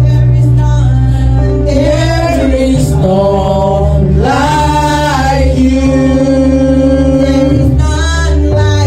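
Gospel worship song: singing over sustained low bass notes that shift to new chords about three seconds in and again near the end.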